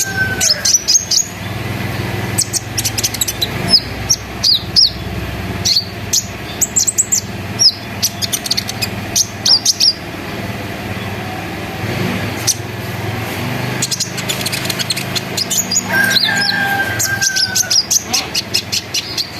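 Konin (kolibri ninja) sunbird singing in full: rapid series of sharp, high chirps and short chattering trills, with a longer whistled note that falls slightly about sixteen seconds in. A steady low hum lies underneath.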